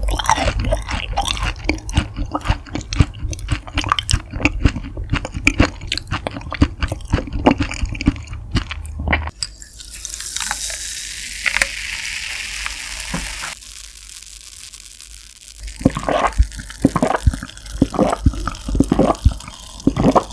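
Close-miked wet chewing of soft raw beef offal, with sticky clicking mouth sounds, for about nine seconds. Then water is poured into a glass mug, a steady hiss for about four seconds. Near the end come several gulps of water.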